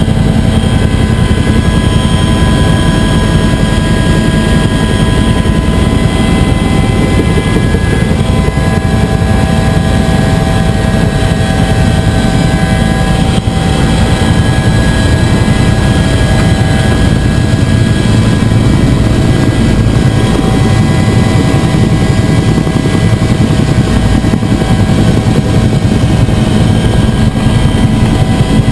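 Bell UH-1 "Huey" helicopter running, a loud steady rotor and turbine noise with a steady high whine on top.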